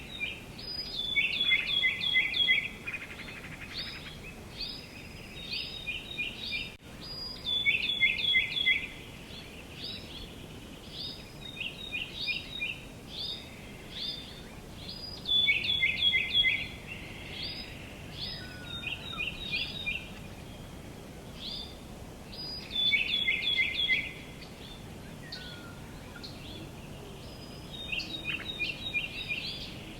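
Songbirds singing outdoors: short phrases of quick, high notes that step downward, repeated every few seconds over a faint steady background of outdoor ambience.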